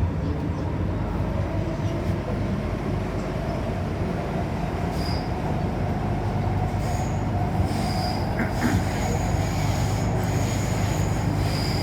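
MTR Tsuen Wan Line M-Train running along the track: a steady rumble of wheels and running gear, with short high-pitched wheel squeals coming in from about five seconds in.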